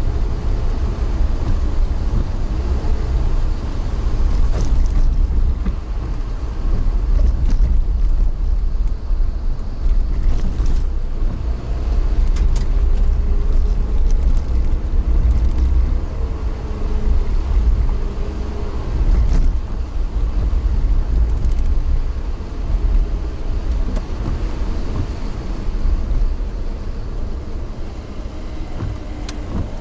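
A moving vehicle's steady low running rumble, with scattered light clicks and knocks and a faint wavering tone partway through.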